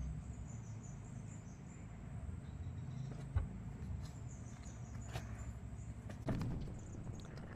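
Low steady hum with a few faint clicks and knocks, the clearest about three seconds in and just after six seconds.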